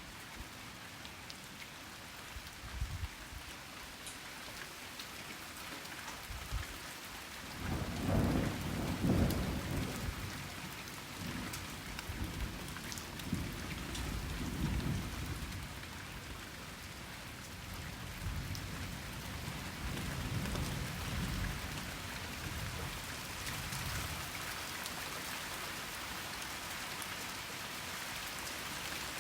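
Steady rain falling, with a long roll of thunder starting about a quarter of the way in. The thunder is loudest at first, then rumbles on in weaker waves for over ten seconds before dying away under the rain.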